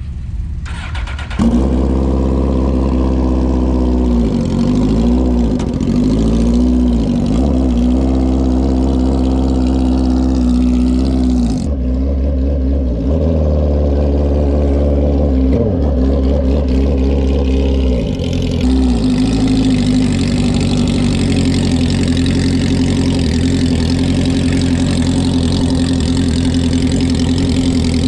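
A vehicle engine running loudly, its pitch repeatedly dropping and rising again as it is revved, starting abruptly about a second in.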